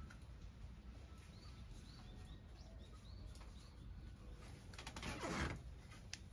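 A bird chirping a quick series of short, high notes. About five seconds in comes a brief rustle.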